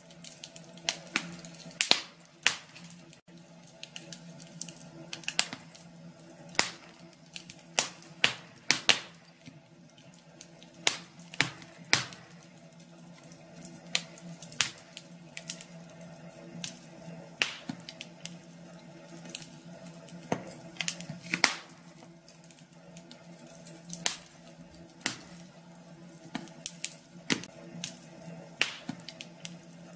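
Wood fire crackling in a fireplace: irregular sharp pops and snaps, sometimes in quick clusters, over a low steady hum.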